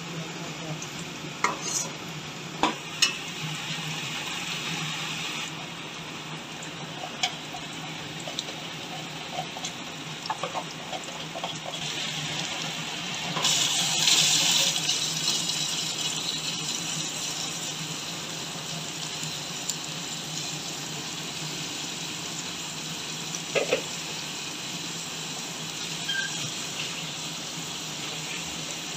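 Sliced onions sizzling as they fry in oil in a metal pot, stirred with a metal ladle that clicks against the pot a few times. About halfway through, raw chicken pieces dropped into the hot oil set off a louder burst of sizzling that then settles into a steady fry.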